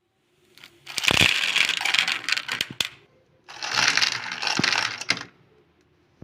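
Hard, set sesame candy crunching and cracking in two bursts, each about a second and a half long, with sharp clicks and snaps through them.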